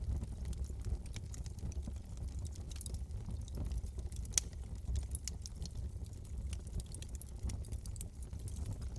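Wood fire crackling in a fireplace: frequent sharp pops and crackles over a steady low rumble of the flames, with one louder pop a little before the middle.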